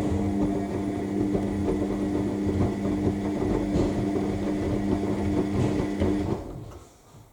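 Front-loading washing machine's drum motor running at a steady speed as it turns the drum during the main wash, a constant hum over a rough rumble. It stops abruptly about six seconds in.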